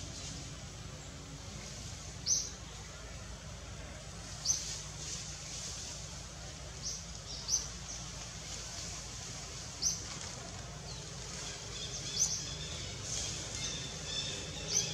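Birds in woodland giving short, high chirps, one every couple of seconds, over a steady outdoor background hiss.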